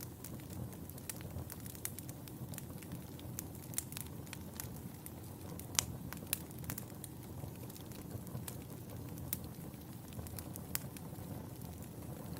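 Wood fire burning in a fireplace: a steady low rush of flames with irregular sharp crackles and pops, one louder pop about halfway through.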